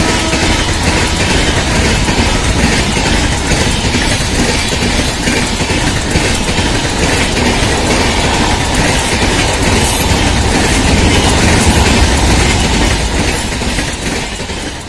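A high-speed passenger train's coaches rushing past close by, a loud steady roar of wheels on rails with a rapid clickety-clack over the rail joints. The last of the train horn's chord cuts off about half a second in, and the sound fades away near the end.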